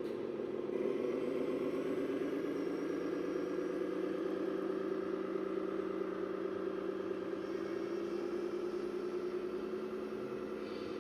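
An RC model tractor or truck running, its sound module playing a diesel engine note that holds steady, getting a little louder about a second in.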